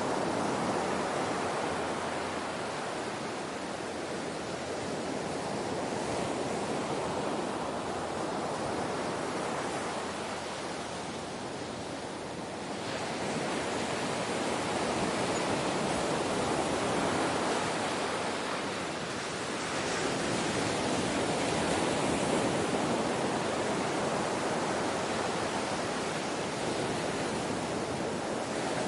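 Ocean waves washing on the shore, a continuous rushing surf that swells and eases slowly, dipping briefly about twelve and nineteen seconds in.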